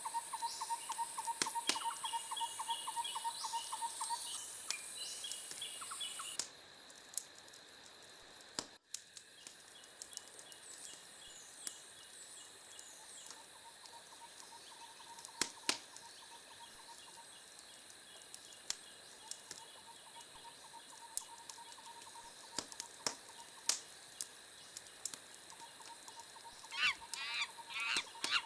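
Sparse sharp pops of a wood fire crackling, over a layer of outdoor nature sounds: a trilling call pulsing about three to four times a second recurs throughout, and a shrill steady insect-like hiss cuts off about six seconds in. A flurry of quick chirping bird calls comes near the end.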